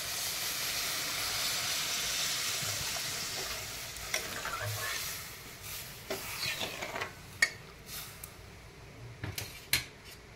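Prawn curry in a hot kadai sizzling just after coconut milk has been poured in, the hiss dying away over the first five seconds as the liquid takes the heat. Then a spatula stirring and scraping in the pan, with a few sharp knocks against the metal in the last few seconds.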